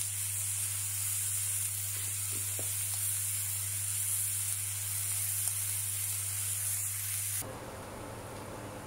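Fried-pork chili paste sizzling in hot oil as it is stir-fried, just after tamarind water has gone into the pan: a steady high hiss over a low hum. About seven seconds in, the hiss drops away suddenly and a quieter, rougher noise carries on.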